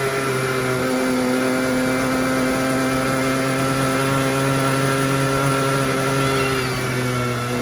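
Small petrol quad bike engine running steadily under way. Its note holds an even pitch, dipping slightly about a second in and again near the end.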